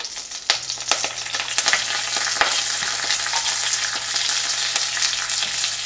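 Chopped ginger, green chilies, curry leaves and peanuts sizzling in hot oil with cumin seeds, crackling sharply as they hit the oil and settling into a steady sizzle.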